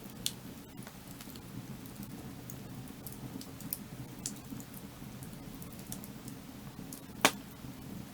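Wood fire crackling: scattered sharp pops and snaps over a low, steady rumble, with one loud pop about seven seconds in.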